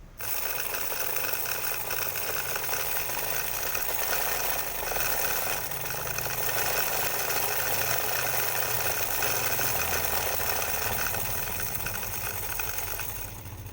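Handmade miniature truck engine sound maker running: a small DC motor whips a wire against a piece of cut drink can, making a fast, steady rattling clatter meant to imitate an idling diesel engine. It starts abruptly and dips briefly near the end.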